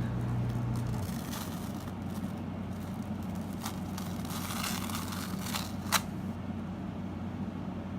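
Chalk Couture adhesive transfer sheet being peeled off a canvas: the sticky film crinkling and crackling as it lifts, with several sharp crackles. A low hum stops about a second in.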